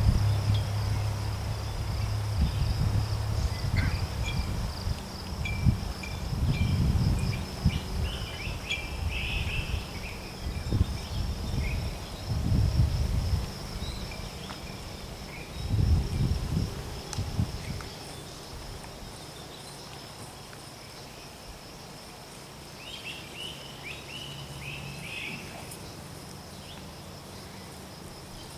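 Outdoor ambience with no speech: an insect trills steadily and high throughout, and a bird chirps in two short spells. Irregular low rumbles are the loudest sound over the first half, then die away about two-thirds of the way through.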